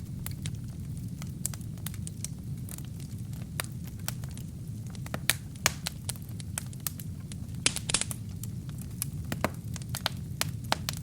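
Wood fire burning in a fireplace, crackling with irregular sharp pops over a steady low rumble of the flames, with a brief cluster of louder pops a little before eight seconds in.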